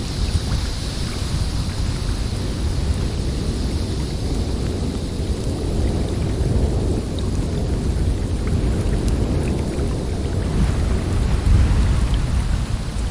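Snowstorm wind blowing as a deep, continuous rumbling rush with a fainter high hiss, swelling in a stronger gust about eleven seconds in.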